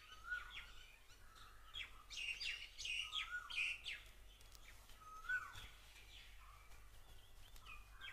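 Faint birdsong: several birds chirping, with one short call repeated every couple of seconds and a flurry of quick high chirps about two to four seconds in.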